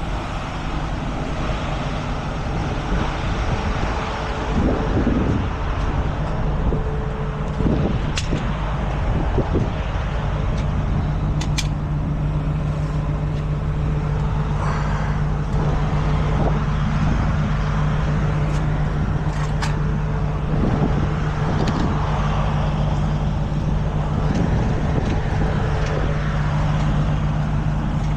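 Tow truck engine idling steadily, its low hum growing steadier and louder about ten seconds in, with a few sharp metallic clicks and clanks from the tie-down straps being fitted.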